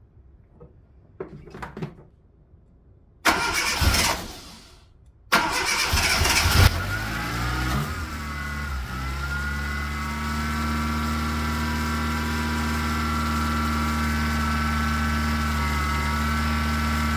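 Zastava 1100p's four-cylinder engine being started after a long standstill: a few light clicks, a first burst of cranking about three seconds in that stops, then a second go about five seconds in that catches. The engine settles into a steady idle about eight seconds in.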